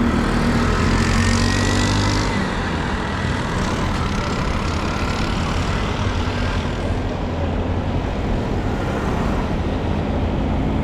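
Street traffic: vehicle engines running with steady road noise, a nearby engine hum loudest for the first two seconds or so.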